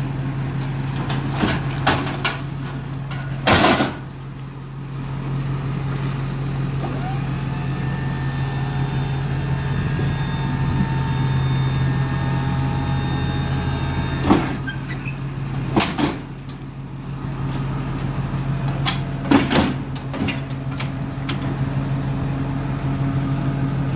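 1999 Ford F450 crane truck's engine idling steadily, with several sharp metal bangs and clacks of its side compartment doors being opened and shut.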